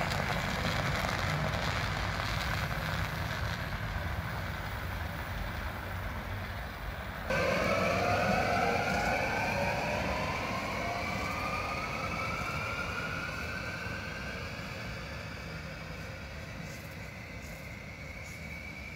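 A train's rumble fading away, then an abrupt change about seven seconds in to an electric train pulling away, its traction motors whining in several tones that slowly rise in pitch as it gathers speed.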